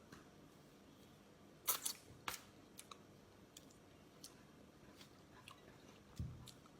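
Quiet eating sounds from a person eating: a few sharp clicks or crunches about two seconds in, then faint scattered ticks and a soft low thump near the end.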